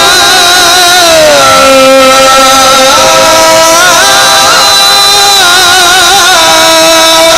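A man's voice in melodic Quran recitation, holding long drawn-out notes with wavering ornaments and gliding down in pitch about a second in.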